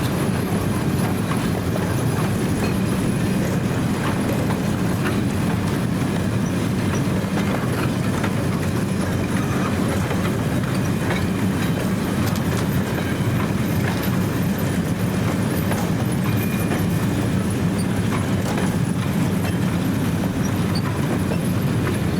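Train running on the rails: a steady rumble with a scatter of light clicks from the wheels.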